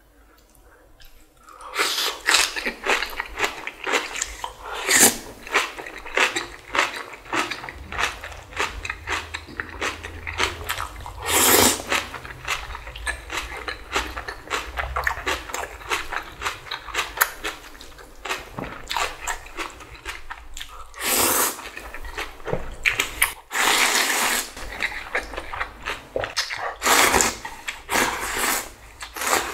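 Close-miked eating of spicy kimchi and ramen noodles with bean sprouts: a dense run of wet chewing clicks and crunches. A few longer, louder noisy stretches come about 12 seconds in and again past the 20-second mark.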